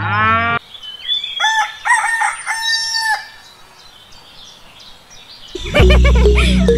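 A rooster crows once, starting about a second in and lasting about two seconds. Music breaks off just before the crow and comes back in loudly near the end.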